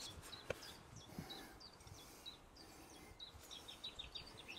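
Faint birdsong: a songbird's quick high chirps, coming thicker in a short flurry near the end, with one soft click about half a second in.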